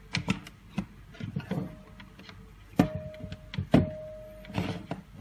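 Hands handling a cable and an electronics module: a string of light clicks and knocks, with two sharper knocks about three and four seconds in, each followed by a short steady tone.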